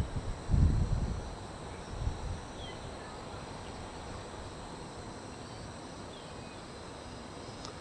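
Outdoor ambience: steady high-pitched insect chirring with a few short, faint bird chirps, and low rumbles in the first two seconds.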